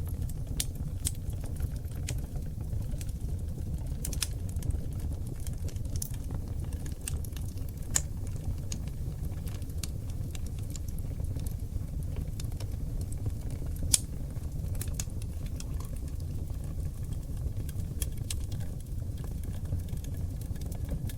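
Oak logs burning in a wood fireplace: a steady low rumble of flames with scattered sharp crackles and pops, two of them louder, about a third and two-thirds of the way through.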